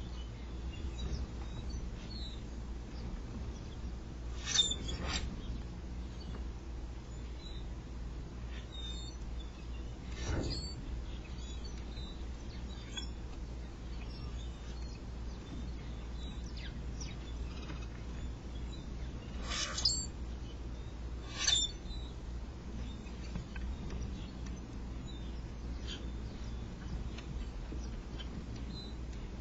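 Feeder birds chirping, with short scattered calls over a steady low rumble. Four louder, sharp sounds stand out, about five, ten, twenty and twenty-one seconds in.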